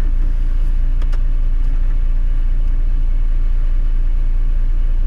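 Four-wheel drive's engine running steadily at low revs, a constant low rumble heard from inside the vehicle.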